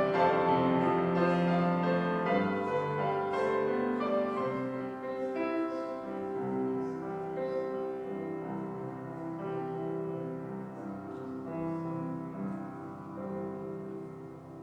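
Slow, quiet piano prelude of held chords, fading away near the end as the piece closes.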